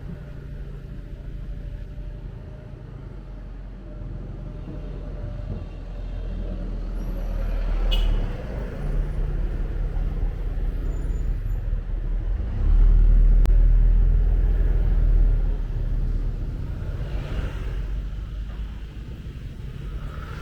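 Motorbike engine running with road rumble while riding through traffic; the rumble grows louder, swelling most for a couple of seconds past the middle, with a sharp click about 8 seconds in.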